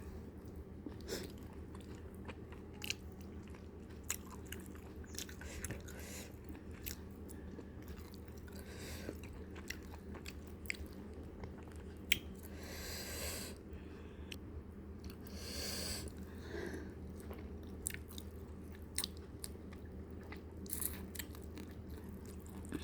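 Close-up mouth sounds of chewing and gnawing on fried fish, with many small sharp clicks and crunches, over a steady low hum. Two short hissy sounds come around the middle.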